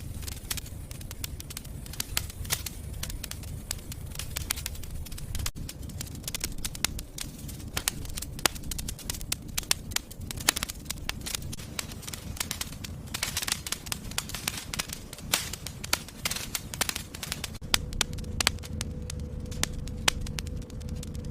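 Wood fire in a fireplace crackling and popping, with irregular sharp snaps over a low rumble of the flames.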